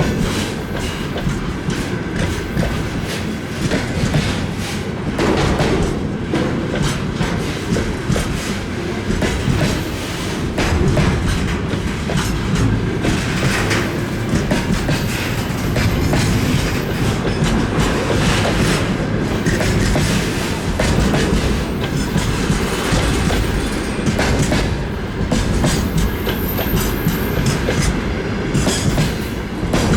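Freight train wagons rolling past, wheels clattering over the rail joints in a continuous run of clicks over steady rumbling rail noise.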